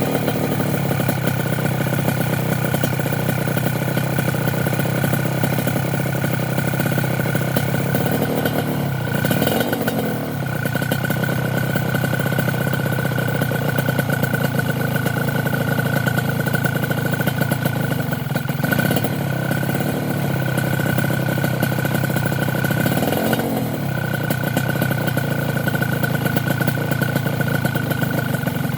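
Suzuki TS125's two-stroke single-cylinder engine idling through a full stainless-steel aftermarket exhaust, with a few short throttle blips along the way.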